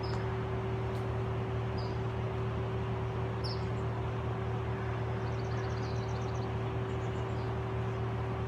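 A machine running with a steady, unchanging hum, with small birds chirping a few times over it and a quick high trill about five to six seconds in.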